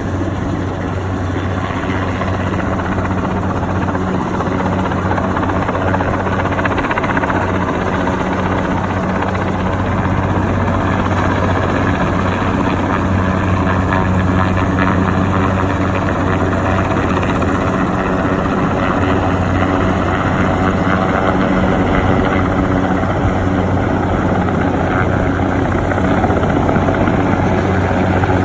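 Helicopter running steadily, a low, even rotor and engine drone that holds throughout and grows slightly louder over the first few seconds.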